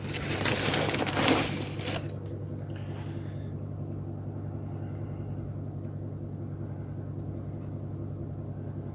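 Rustling and scraping for about the first two seconds as fine tile grout powder is shaken from an old lid onto a glued surface. After that there is only a steady low hum.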